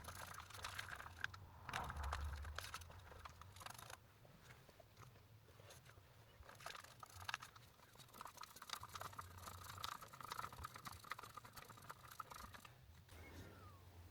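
Faint, irregular scraping and small clicks over a low steady hum.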